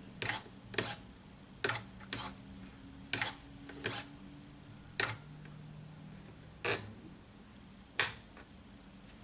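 Bow-plane extension mechanism of a model submarine clicking: about ten sharp, irregularly spaced clicks, with a faint low hum through the middle.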